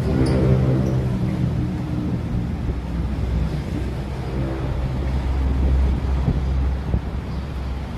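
A motor vehicle engine running close by, its low rumble shifting in pitch as it goes and strongest about two-thirds of the way through, with a faint bird chirp or two.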